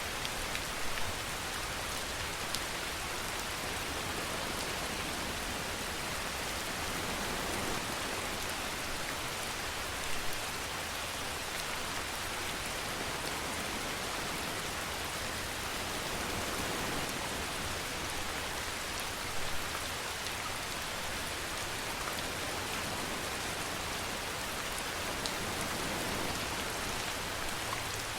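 Steady rain falling in an even, dense hiss, with a few brief louder drop taps.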